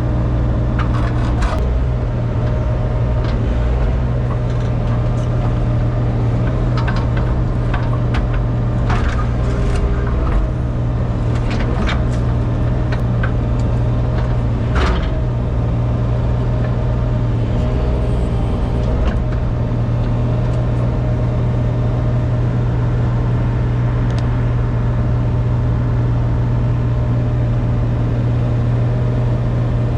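An engine running steadily at a constant speed, with scattered short knocks and clicks over it.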